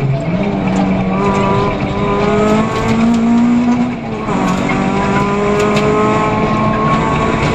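Peugeot 206 F2000 rally car's engine heard from inside the cabin, driven hard on a stage. The revs dip at the start and again about four seconds in, each time climbing again under full load.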